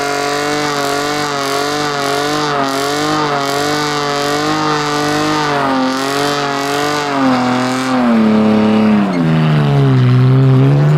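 Car engine held at high revs during a burnout, the revs wavering up and down over the hiss of spinning tyres, then dropping in steps about seven seconds in and settling lower and louder near the end.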